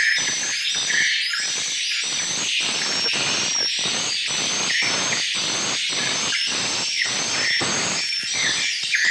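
Many edible-nest swiftlets calling inside a swiftlet house: dense, overlapping high twittering chirps over a fast, irregular stream of sharp clicks.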